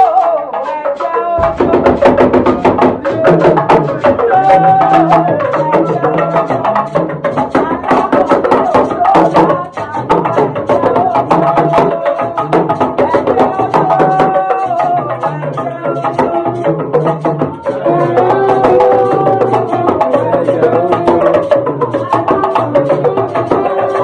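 Live band music: a busy, driving pattern of drums and percussion with a repeating bass line and melodic instrument notes over it.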